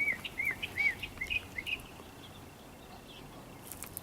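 A bird calling: a series of short, arched chirps repeated about two to three times a second, stopping a little under two seconds in.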